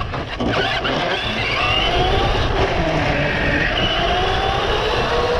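RC car running, its motor whine rising and falling in pitch as it speeds up and slows, over a loud continuous rumble and rattle from the drive.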